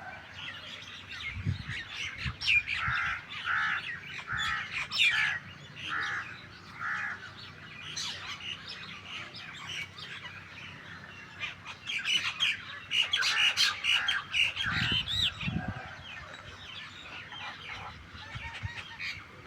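Starlings and mynas calling: a run of short repeated notes, about two a second, in the first seconds, then busier, denser chattering past the middle.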